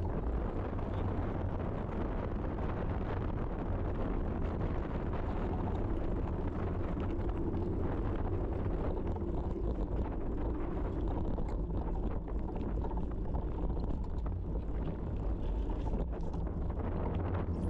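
Steady low wind rumble buffeting the microphone during a ride, with an even rushing noise underneath.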